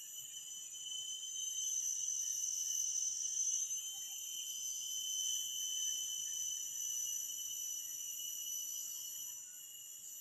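Steady, high-pitched chorus of forest insects, several continuous trills at different pitches layered together.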